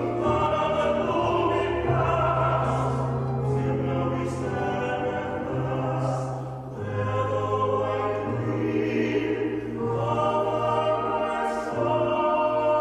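A choir singing in a classical style, long held chords moving every second or two over a sustained low bass line, with the words' consonants audible.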